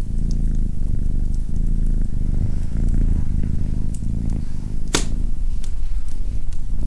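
Domestic cat purring steadily, a loud low rumble, with the light crackle of a wood fire and one sharp crack about five seconds in.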